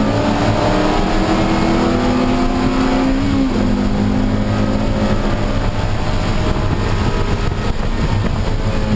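Honda Civic Si race car's engine pulling hard, its pitch climbing for about three seconds, then dropping suddenly at an upshift and pulling on steadily. A steady hiss of wet-track and wind noise runs underneath.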